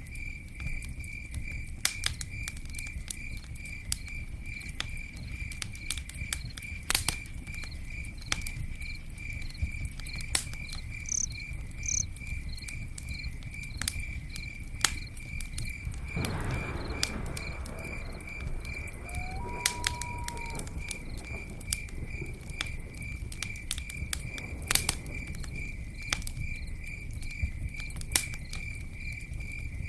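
Campfire crackling, with scattered sharp pops over a low rumble, while a cricket chirps in a steady, even pulse. A short rush of noise comes a little past the middle.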